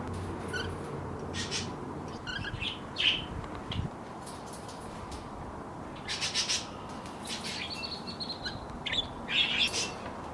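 Small pet parrots in a mixed aviary chirping and calling in short, scattered chirps, with quick runs of chirps about six seconds in and again near the end.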